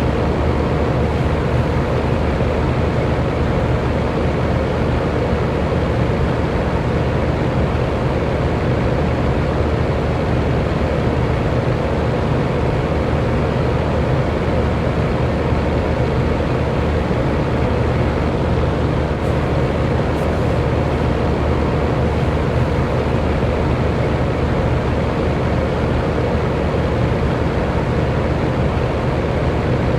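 Electric fan running steadily: an even rush of moving air over a low motor hum, with no change in speed.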